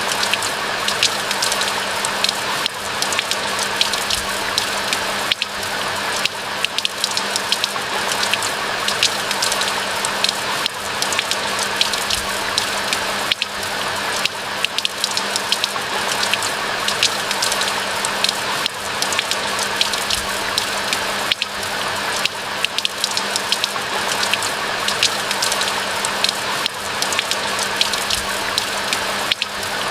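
Steady rain falling in a pine forest: a constant hiss of rainfall with many distinct, sharp drop impacts scattered through it.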